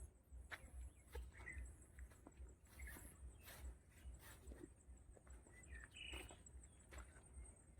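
Faint outdoor ambience with a few short bird chirps, scattered light clicks and a low rumble.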